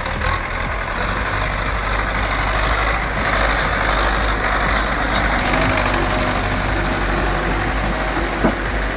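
A heavy truck's engine running steadily under a broad hiss, with one short sharp sound about eight and a half seconds in.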